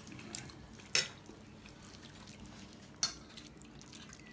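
A few light clinks of spoons on dishes: three short strikes, the clearest about a second in and about three seconds in.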